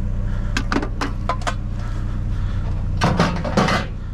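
Junk being handled in a dumpster: a quick run of sharp clinks a little after half a second in, then a longer rattling clatter about three seconds in. A steady low engine hum runs underneath.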